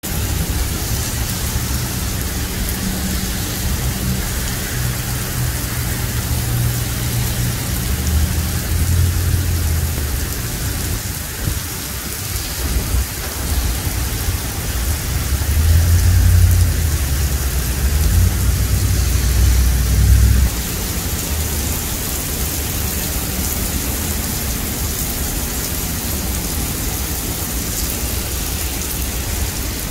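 Heavy rain pelting an asphalt road, a steady dense hiss of drops splashing on the wet pavement. A low rumble runs underneath, loudest near the middle, and cuts off suddenly about two-thirds of the way through.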